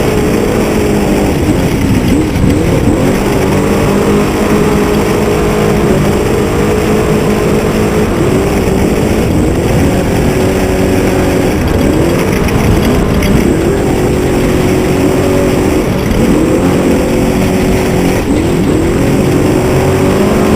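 Truck engine running at a steady pitch, with the pitch dipping briefly and climbing back every couple of seconds.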